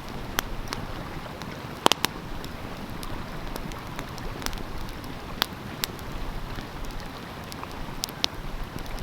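Wood fire crackling with scattered sharp pops, the loudest a quick double pop about two seconds in, over the steady rush of a flowing stream.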